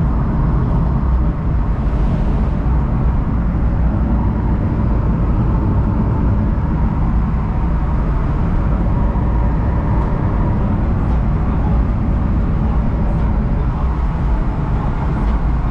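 Steady engine and road drone from a BMW E36 on the move, heard from inside the car, with no change in pitch or level.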